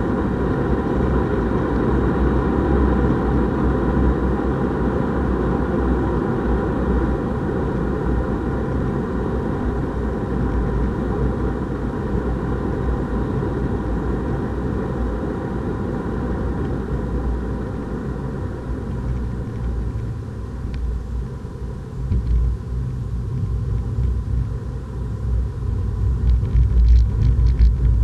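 Renault Clio RS 200's turbocharged 1.6-litre four-cylinder engine under load, heard from inside the cabin with road and tyre rumble while lapping a race track. The engine tone holds steady, eases off a little past the middle, then the rumble builds again near the end.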